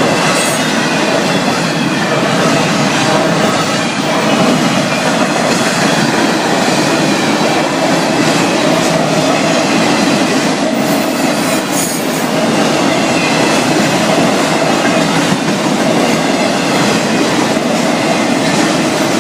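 Freight cars of a Florida East Coast Railway train rolling past close by: a steady rumble and clatter of steel wheels on the rails.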